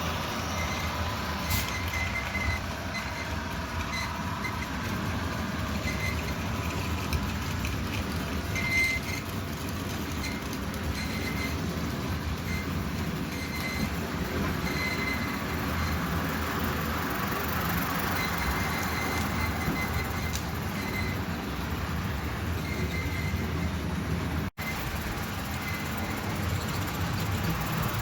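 Hornby OO gauge model trains running round the layout: a steady rumble of wheels on track with small irregular clicks as they pass over rail joints. The sound drops out abruptly for an instant about three quarters of the way through.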